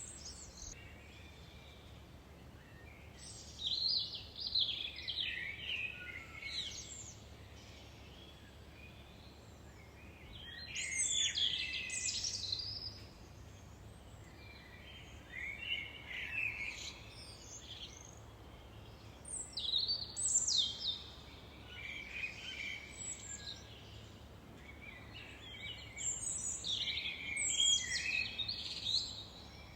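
Songbirds singing in about five separate bursts of quick, sliding high notes, each a few seconds long with short pauses between, over a steady low rumble.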